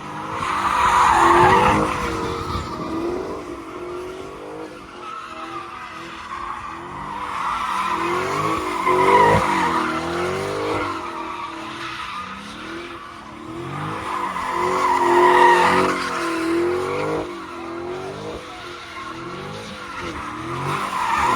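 A car's tires screeching as it spins at speed, with its engine revving up and down. The screech swells three times: about a second in, around nine seconds and around fifteen seconds.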